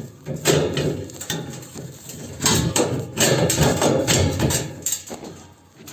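Irregular knocking and scraping of a chimney pipe section being worked by hand into its joint, dying away near the end.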